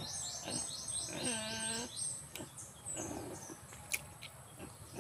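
A bird singing a quick run of short, high, downward-slurred notes, about four a second, for the first two seconds. A brief low hum comes partway through, and a single click near the end.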